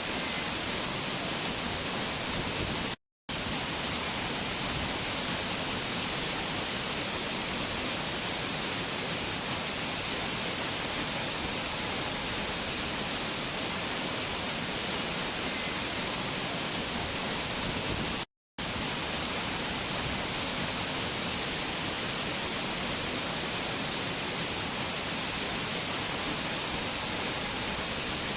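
Steady rushing of a waterfall, an even, dense hiss, which drops to silence twice for a split second.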